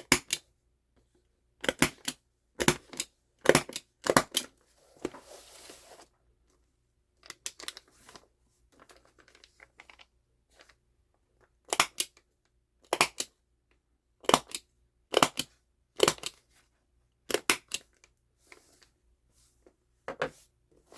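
A stapler being pressed through paper again and again: a series of sharp clicks, many in close pairs, with some paper rustling between them.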